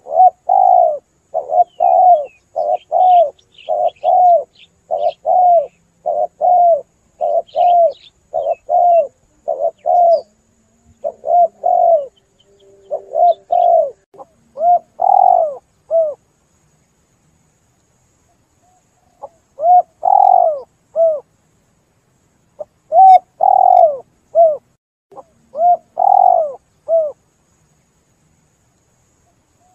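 Spotted dove cooing: a fast run of repeated coos, a pause of about three seconds in the middle, then another run of coos. Faint high chirps of small birds come in now and then during the first half.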